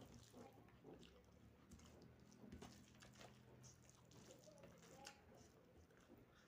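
Faint close-up chewing and wet mouth sounds of someone eating soya chunk curry with rice, with small scattered clicks.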